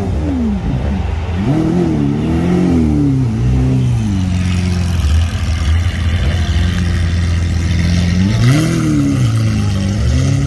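Lamborghini Aventador SV Roadster's V12 running at a low idle as the car creeps away, with the revs rising and falling in light throttle blips, about a second and a half in and again near the end.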